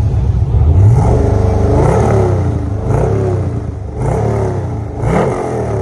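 Car engine revved through its exhaust in a series of short throttle blips, about five, each rising and falling back in pitch.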